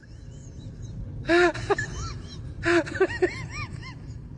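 A dog making short whining vocal sounds, each rising and falling in pitch, in two bursts about a second and a half in and again near three seconds.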